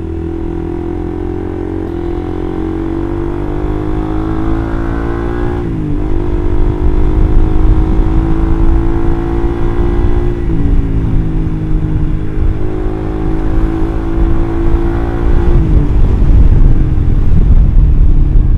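Suzuki GSX-R150's single-cylinder engine through an R9 Mugello aftermarket exhaust, accelerating through the gears. The pitch rises, drops sharply at upshifts about 6, 10 and 15 seconds in, and climbs again each time, getting louder toward the end.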